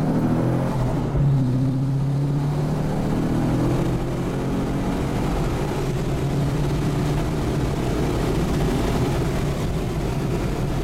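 Twin-turbo 6.0-litre V8 of a Commodore SS wagon heard from inside the cabin, running under power down a straight, its pitch climbing as it accelerates, over road and wind noise.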